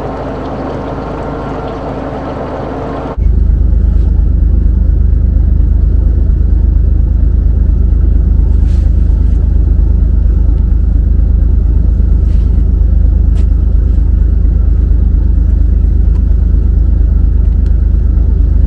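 Fishing boat running: steady noise with a low hum. About three seconds in it cuts abruptly to a much louder, deep, steady rumble.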